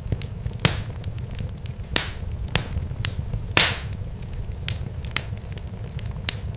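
Irregular sharp crackles and pops over a steady low rumble, with a few louder pops that trail off in a short hiss, the loudest about three and a half seconds in.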